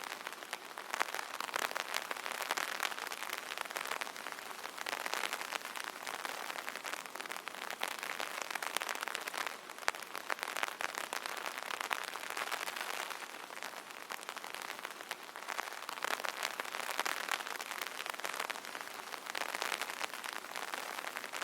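Rain pattering on an umbrella: a dense, steady patter of drops that swells and eases every few seconds.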